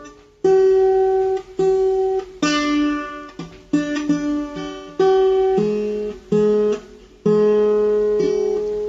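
Instrumental music: an acoustic guitar strums chords, each chord struck and left to ring out, about one a second.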